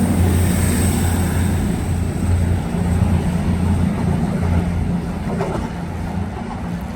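Diesel train engines running with a steady low drone and a high hiss, slowly fading as the train draws away.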